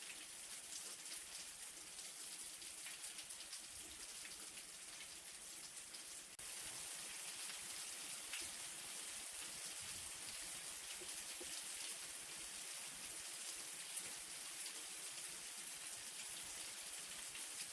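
Light rain falling steadily, with many small drops pattering on surfaces. The level steps up slightly and abruptly about six seconds in.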